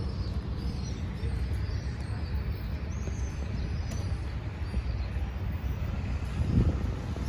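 Steady low outdoor rumble that wavers in level, with faint high chirps scattered through it.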